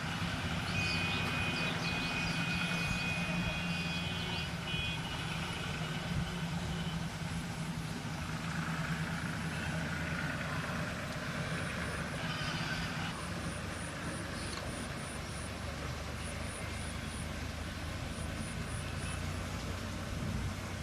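Steady low engine hum, with a few high-pitched tones over it in the first few seconds.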